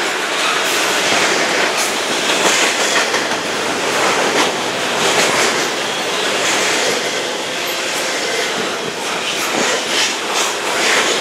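Double-stack intermodal well cars of a freight train rolling past. Steel wheels on the rails make a steady loud rumble and rattle, with scattered clicks as the wheels cross the rail joints.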